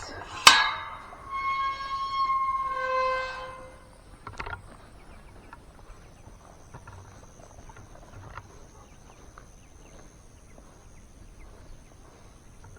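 A stuck metal gate gives with a sharp clank, then squeals on its hinges for about three seconds as it swings open, followed by a thump. After that only faint scattered ticks and a thin, steady high tone are heard.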